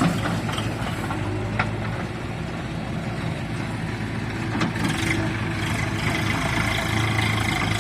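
Tractor engine running steadily at low, even speed, close by, with a few faint clicks over it.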